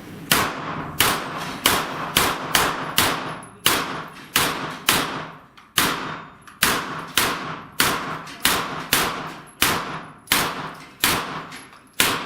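A rapid string of about twenty gunshots from a handgun or pistol-caliber carbine firing at steel plates, roughly two shots a second, each shot followed by a short echo.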